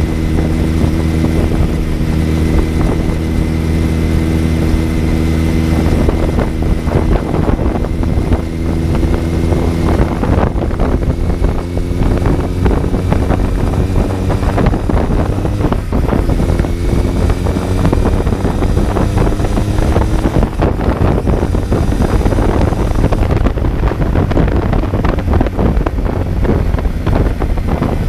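2019 Kawasaki Z900's 948 cc inline-four engine heard from the rider's seat while cruising, its pitch holding mostly steady with gentle rises and falls as the throttle changes, under a steady rush of wind.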